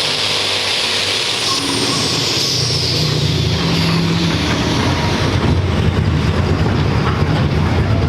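Pulling tractor's turbocharged diesel engine running loud, with a high whine that falls away about three seconds in as a deep low rumble builds and gets louder.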